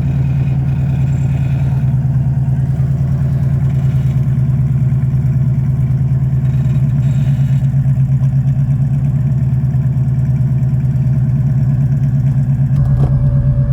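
A vehicle engine idling steadily close by, a low even hum with regular firing pulses. A steady higher whine joins it near the end.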